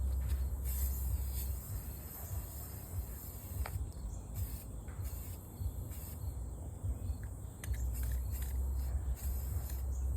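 Wind rumbling on the microphone, easing off for a few seconds mid-way, over a steady high-pitched insect chorus, with a few faint clicks.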